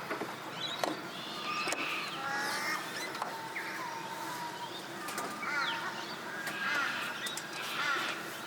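Several birds calling over one another: a run of short repeated calls and whistles, some rising and some falling in pitch, with no one bird standing out.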